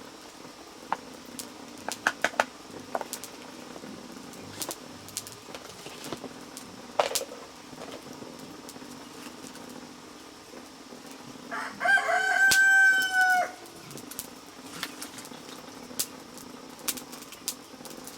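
A rooster crows once, about twelve seconds in, a single call of about a second and a half. Scattered sharp clicks and knocks sound throughout.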